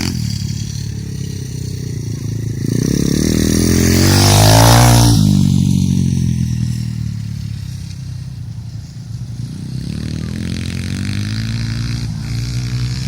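Pit bike engines racing round the track, revving through the gears. One bike passes close about four to five seconds in, its engine note climbing and then dropping as it goes by, with other bikes running further off.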